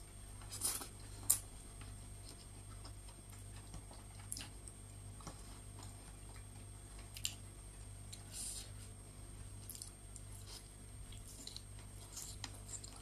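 A person eating rice and chicken by hand: scattered wet chewing and lip-smacking clicks, a few seconds apart, the sharpest about a second in, over a faint steady hum.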